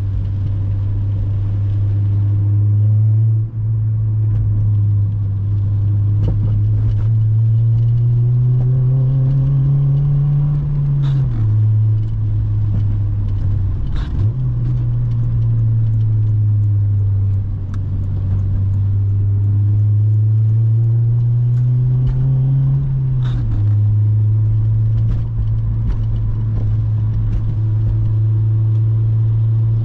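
Honda Civic Si's 2.0-litre four-cylinder engine and exhaust drone steadily on the move. Twice the pitch climbs slowly as the car accelerates, about a third and three quarters of the way in, then drops back abruptly. A few sharp clicks are scattered through.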